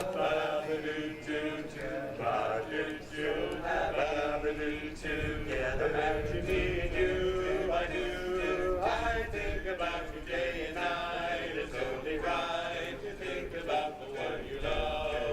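A choir singing in harmony, several voices holding and moving between chords, with no instruments standing out.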